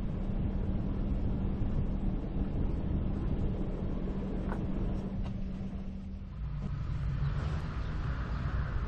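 Sailboat's auxiliary engine running steadily with a low rumble; its note drops a little about six seconds in.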